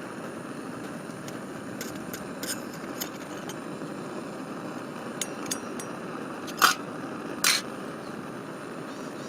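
Wood campfire burning with a steady rush, crackling with scattered sharp pops, the two loudest a little past halfway.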